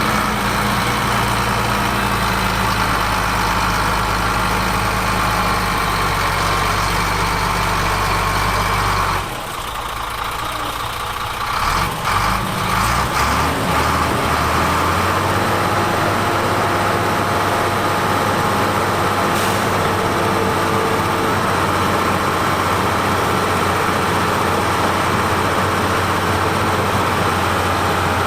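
Heavy diesel engine of construction machinery running steadily. About a third of the way through it drops away briefly with a few knocks, then the engine note rises and holds steady again.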